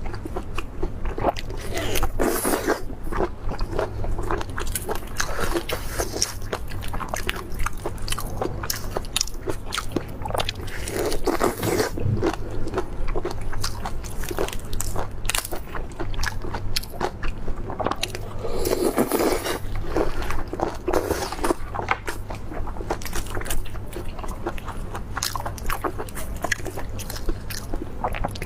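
Close-miked eating: a run of bites and crunchy chewing with many small sharp clicks, over a steady low hum.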